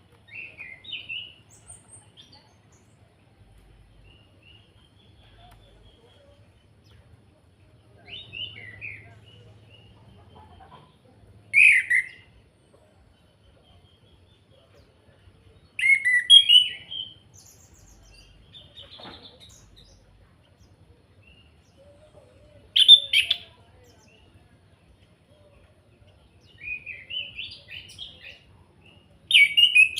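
Chestnut-capped thrush (Anis Kembang) singing short, loud phrases of varied whistled and rattling notes, about eight of them, each a second or less, with pauses of a few seconds between.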